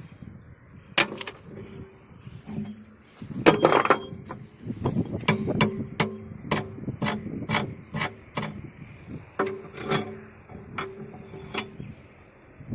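Hammer blows on steel with a metallic ring while the teeth on an excavator bucket are changed by hand. A few scattered strikes come first, then a steady run of about two blows a second, and a last group near the end.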